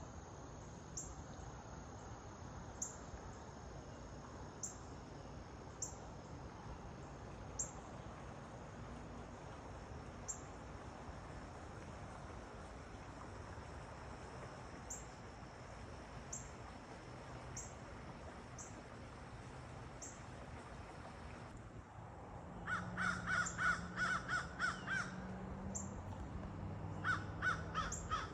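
A crow cawing in quick runs of harsh calls, once about three-quarters of the way in and again near the end. Before that, a small bird's short high chirp repeats every second or two over a steady outdoor hiss.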